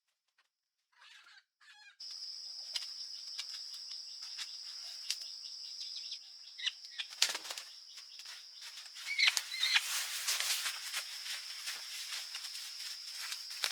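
Forest ambience: a steady high-pitched insect drone that starts abruptly about two seconds in, with a busy patter of rustling and crackling over it. There is one loud rushing sweep a little past the middle, and a few short chirps soon after.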